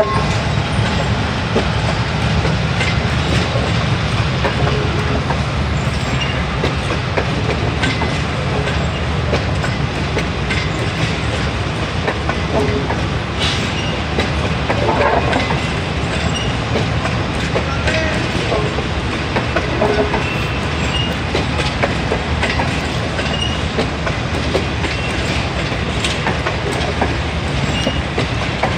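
A passenger train running past on the track, with a steady heavy rumble and wheel clatter over the rails and a few faint short squeaks.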